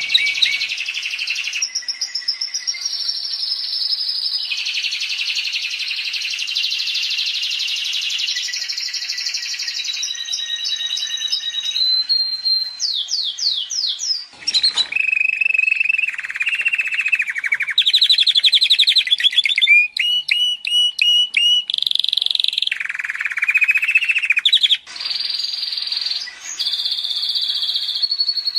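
Domestic canary singing a long, continuous song of rapid trills and rolls, switching to a new repeated phrase every second or two with only brief pauses.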